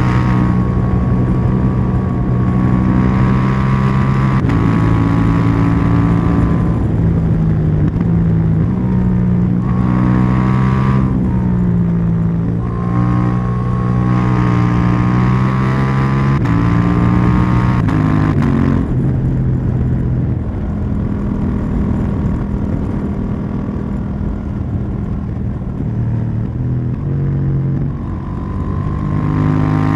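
KTM 790 Duke's parallel-twin engine and exhaust under way, the pitch stepping up and down with throttle and gear changes. It eases off and runs quieter for a stretch in the second half, then pulls harder again near the end.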